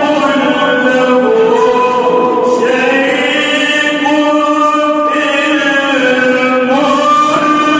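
A man's voice reciting the Quran in melodic tajweed style, drawing out long held notes that step to a new pitch a few times.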